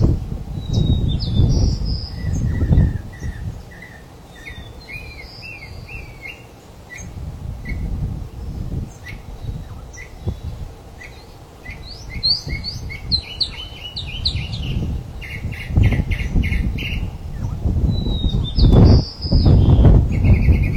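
Small birds chirping and whistling in many quick notes, over a loud, uneven low rumble that swells near the start and again near the end.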